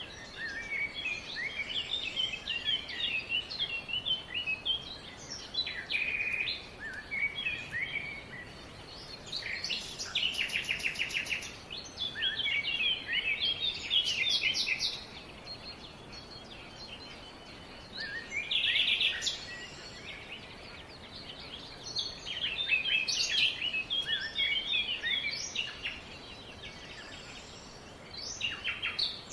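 Songbirds singing in repeated phrases of quick chirps and trills, with short pauses between phrases, over a steady faint background hiss.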